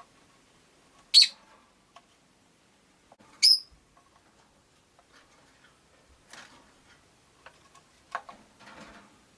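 Rosy-faced lovebirds giving two loud, sharp, high-pitched chirps about two seconds apart, followed by softer rustling and tapping.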